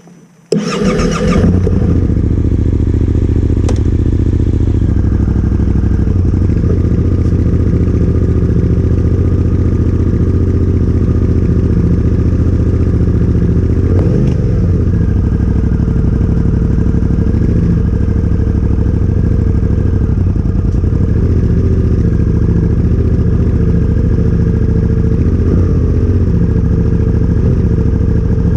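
Yamaha Ténéré 700's parallel-twin engine, breathing through a Yoshimura R-12 exhaust, cranked on the starter and catching within about a second, then idling steadily, with one small blip about halfway through.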